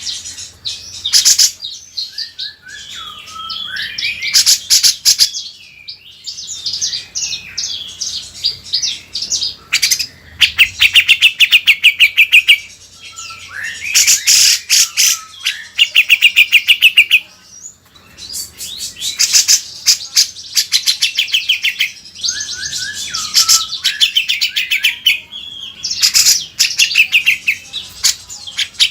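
Songbird singing a loud, varied song: fast rattling trills and rapid chattering series alternate with warbled, gliding phrases, repeated in bouts.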